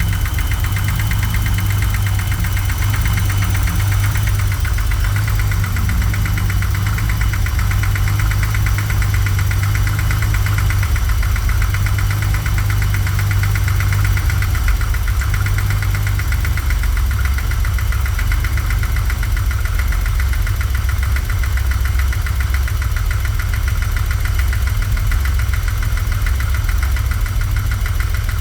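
BMW M30 straight-six in an E34 idling roughly, just brought back to life after sitting dead for years. The idle note drops lower about halfway through.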